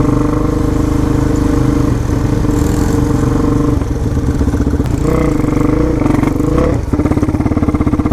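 Motorcycle engine idling close by, its pitch wavering up and down with light throttle blips about five seconds in, then dropping into a slower, lumpier idle near the end.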